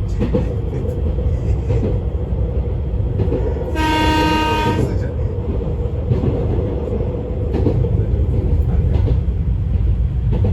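Izukyu 2100 series electric train running, heard from inside the carriage: a steady rumble of wheels on rail. About four seconds in, the train's horn sounds once for a little over a second.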